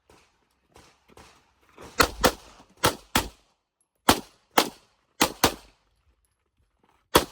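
Pistol-calibre gunshots fired in quick pairs, double taps on the targets of an IPSC practical-shooting stage. There are about nine loud shots, with a few fainter pops in the first second and a half.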